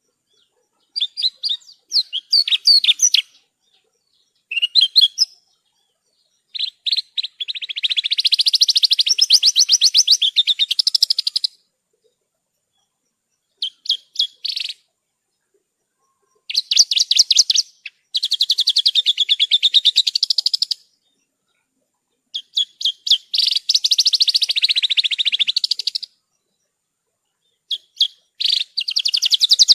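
Branjangan (Javan bush lark) singing in a series of high-pitched song phrases made of very rapid trilled notes, some short, some running four to five seconds, with clean silent pauses between them.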